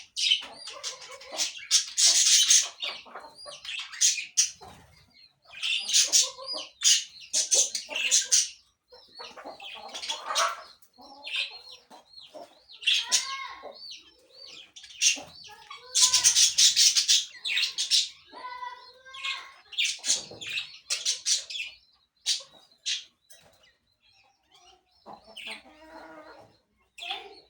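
Parakeets screeching and chattering in repeated harsh bursts with short gaps between, and some lower calls mixed in.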